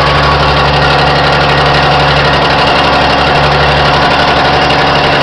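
M135CDN Canadian military truck's engine running steadily at idle, with no revving.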